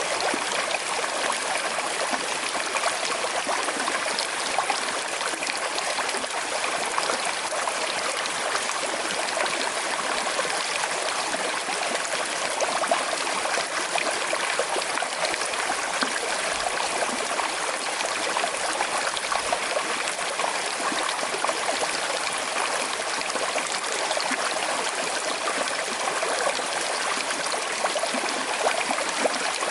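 Small river with a slight current flowing over stones: a steady, even rush and babble of water.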